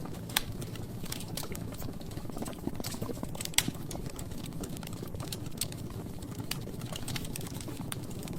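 Logs burning in a fireplace, crackling: scattered sharp snaps and pops over a low steady rumble of the flames, with two louder pops about half a second and three and a half seconds in.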